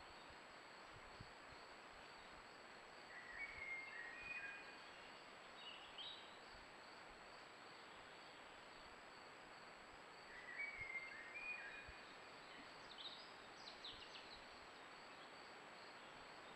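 Faint songbird singing in woodland: a short chirping phrase given twice, about seven seconds apart, each followed by a few higher notes. Under it runs the steady hiss and a thin high-pitched tone of the trail camera's microphone.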